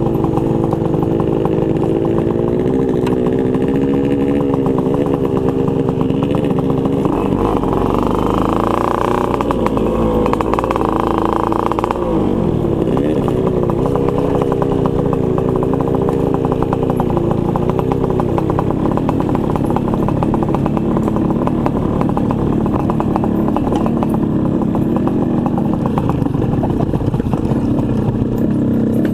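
Two-stroke motorcycle engine running under way, its pitch rising and falling with the throttle.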